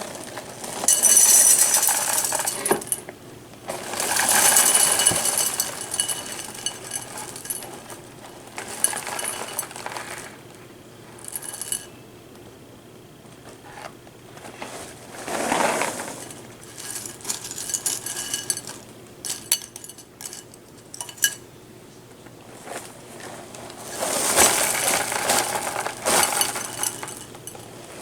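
Metal spoon clinking and scraping against a cereal bowl in several bouts of a few seconds each, with ringing tones after the strikes.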